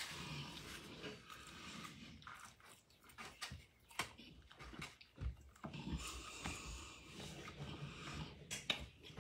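Faint chewing and mouth noises of a person eating, with a few small sharp clicks.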